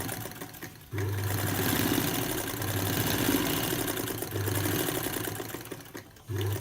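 Vintage cast-iron Singer electric sewing machine stitching through two layers of leatherette: a brief burst, then a run of about five seconds with motor hum and rapid needle clatter, then another short burst near the end. It starts and stops because the machine is really powerful and goes really fast.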